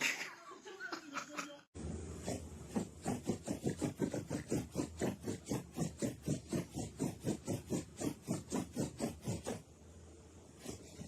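An animal making a fast, even run of short huffing breaths or grunts, about three or four a second, that stops near the end.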